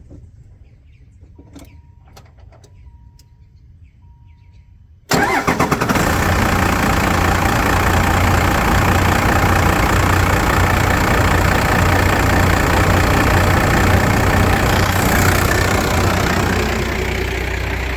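1995 Dodge Ram 2500's 12-valve 5.9 Cummins inline-six turbo diesel starting from cold: it cranks for a moment and catches about five seconds in, then runs at a loud, steady idle that eases down slightly near the end.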